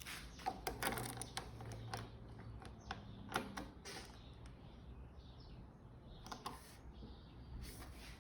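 Faint scattered clicks and small knocks, a cluster in the first few seconds and a couple more later, over a low background hum; no engine running.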